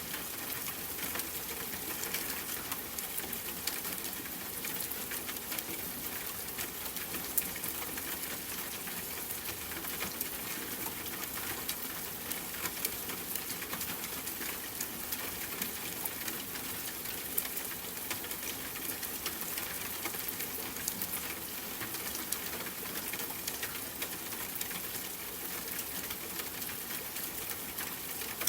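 Steady rain, a dense patter of drops with an occasional sharper drop tick.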